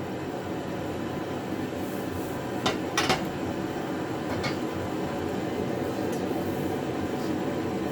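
Metal parts of a welding cart being handled: a couple of sharp clinks close together about three seconds in and a fainter one a second and a half later, over a steady background noise.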